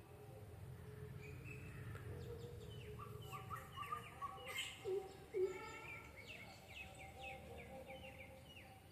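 A group of small birds chirping from a hole in a tree trunk: many short, falling chirps, starting about three seconds in and coming quickly one after another. A few louder notes come near the middle, over a faint low rumble at the start.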